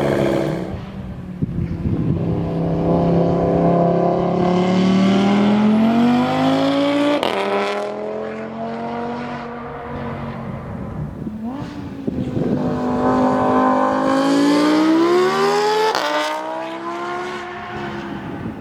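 Audi RS3's straight-piped 2.5-litre turbocharged five-cylinder exhaust revving up twice, the pitch climbing steadily each time and ending in a sharp crack about seven and sixteen seconds in, then dropping back to a lower, steadier note.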